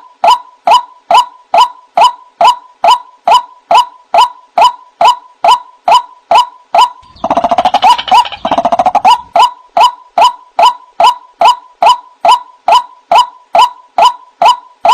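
White-breasted waterhen (ruak-ruak) calls as a bird-lure recording: a harsh 'wak' note repeated monotonously at about two a second. Each note hooks down in pitch. A few seconds in, a faster chattering run joins the calls for about two seconds.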